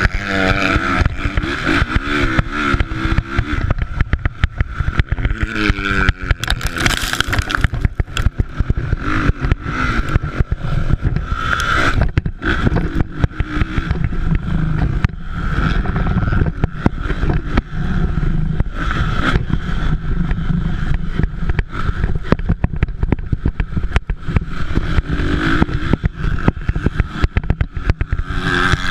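Motocross dirt bikes racing, their engines revving up and falling away over a constant rough, noisy background.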